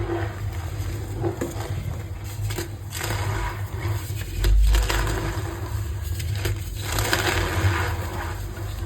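Reformed gym chalk being crushed, crisp crunching that goes on in a run of short crunches, with a heavier low thump about four and a half seconds in.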